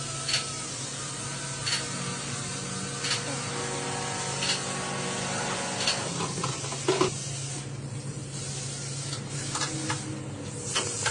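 A vehicle propeller shaft turning, with a steady hum and hiss and a sharp click about every second and a half, then a few heavier knocks about seven seconds in.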